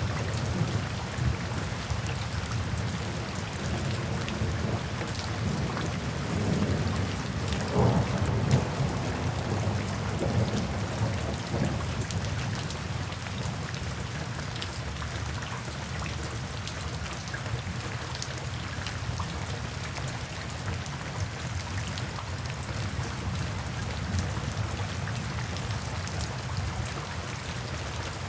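Steady heavy rain with a low rolling rumble of thunder that swells in the first half and then fades, leaving the rain pattering on.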